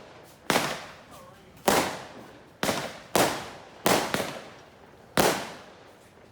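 Fireworks going off in quick succession: about seven loud bangs at uneven intervals, each trailing off in a short echo.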